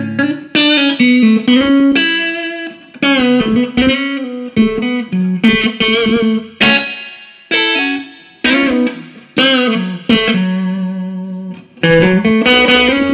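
Electric guitar played through a Fender Deluxe 112 Plus combo amp: single-note phrases with string bends, each note ringing out and decaying. The amp is sounding steadily with no dropouts, tested after a repair for sound randomly cutting out.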